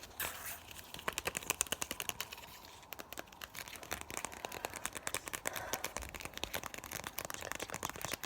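Fast ASMR mouth sounds close to the microphone: a quick, uneven run of wet clicks and smacks, several a second.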